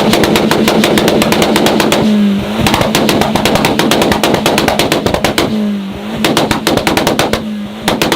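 Tuned Volkswagen's exhaust crackling and popping in rapid strings of bangs, in several bursts. Between bursts the engine's note falls briefly as the revs drop.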